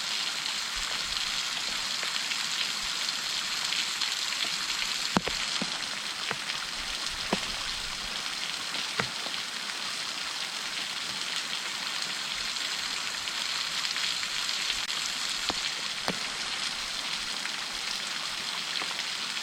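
Waterfall's steady rushing hiss, strongest in the upper range, with a few scattered sharp ticks of flying spray droplets.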